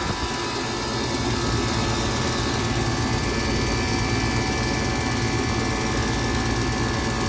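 Outdoor air-conditioning condensing unit running steadily: a low hum with several steady high whining tones over an even rush of air.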